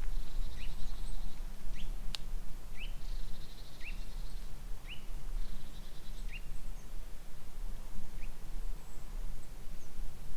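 Forest songbirds calling: short single chirps repeated roughly once a second, with a buzzy trill breaking in now and then, over a steady low rumble. A single sharp click sounds about two seconds in.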